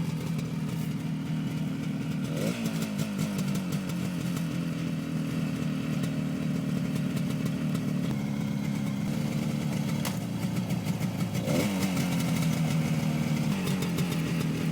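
1967 Yamaha YR-1's 350 cc two-stroke parallel twin idling steadily, with two brief throttle blips, one early and one about three-quarters of the way through.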